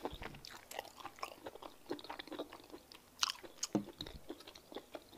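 Close-miked chewing of a mouthful of fufu with peanut soup: a steady run of short, soft mouth clicks, with a louder cluster a little past three seconds in.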